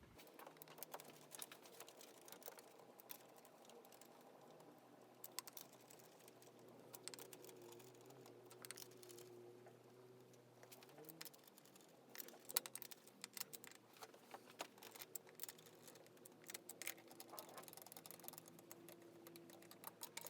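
Faint, scattered small clicks and taps over a low steady hum.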